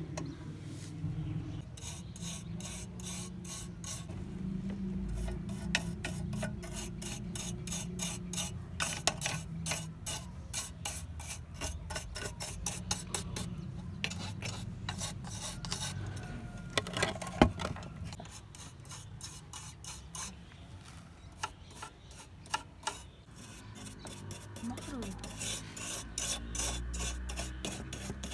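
Rhythmic back-and-forth rasping strokes of hand abrasive work, filing or sanding a lamp part, repeating a few times a second. The strokes ease off for a few seconds partway through, with one sharp click, then pick up again near the end.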